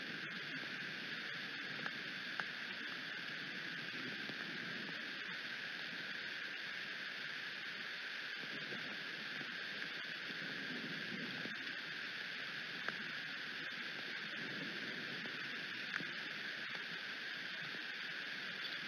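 Rain falling steadily, an even hiss with a low, shifting rumble beneath it and a few sharp ticks.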